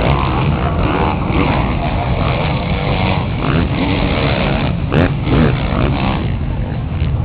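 Motocross bikes running on the track, engines revving up and down as riders go by, with a couple of short clicks about five seconds in.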